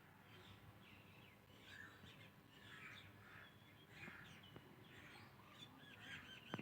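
Indian ringneck parakeet chattering quietly, a run of short chirps and squeaky mumbles.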